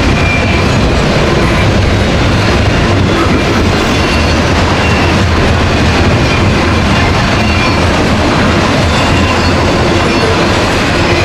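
Loaded coal train's hopper and gondola cars rolling past: a steady, loud rumble and clatter of steel wheels on rail, with brief faint high wheel squeals now and then.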